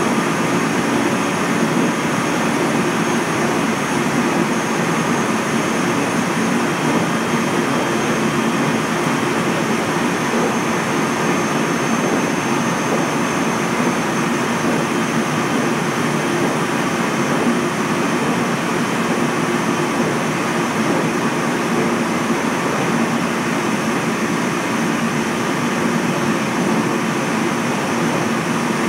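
A JR Central 373 series electric train running at steady speed, heard from aboard: a constant rumble of wheels on rail with a low hum and a faint high whine. Nothing rises, falls or breaks off.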